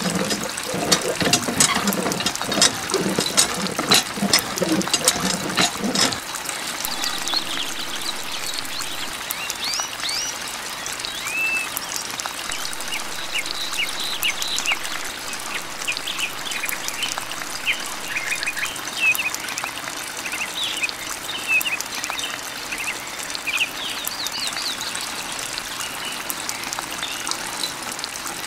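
A thin stream of water from a miniature hand pump's spout trickles and splashes into a shallow basin of water, with many small bubbly plinks. The flow sounds fuller and louder for the first six seconds or so, then settles into a thinner, steady trickle.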